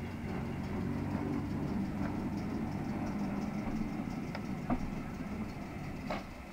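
Southern Region electric multiple unit coach being shunted slowly past, with a steady low engine drone underneath. A few sharp clicks from the wheels come in the second half.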